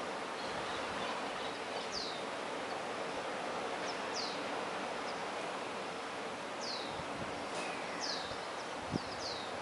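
Steady wash of sea waves and wind, with a bird repeatedly giving short, high whistled notes that drop in pitch, one every second or so.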